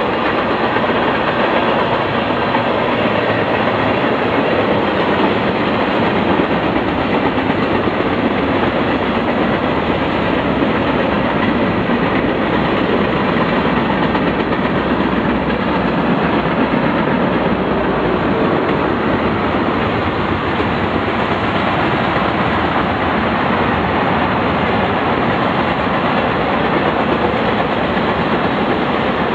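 Freight train of tank cars rolling past, a steady, unbroken rumble of steel wheels on the rails.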